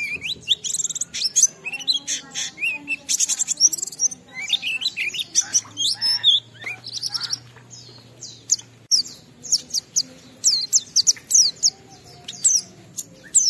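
White-eye (pleci) singing a rapid, high-pitched run of twittering notes and quick downward-sweeping chirps, with barely a pause. This is the continuous 'ngalas' song of a bird in full song.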